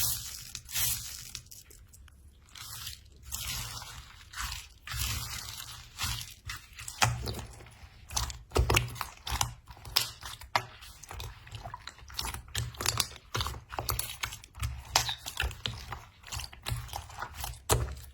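Slime being pressed and squeezed by hand, giving an irregular run of small crackling clicks and squishes that grows denser about seven seconds in.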